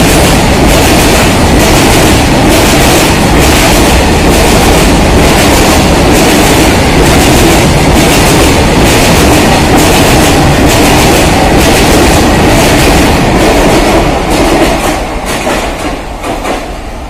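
BTPN oil tank wagons of a fast freight train rushing past on the rails, wheels clacking over the rail joints in a quick, even rhythm with a steady loud rumble. About fourteen seconds in, the noise begins to fall away as the end of the train passes and moves off.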